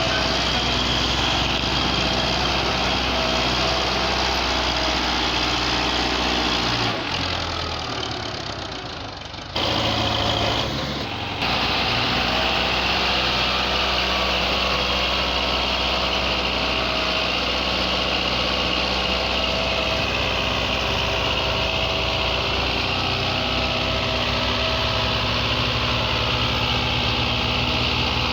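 Belarus 510 tractor's diesel engine running steadily. About seven seconds in, the sound drops and thins for a couple of seconds, then comes back abruptly, with a shorter dip just after.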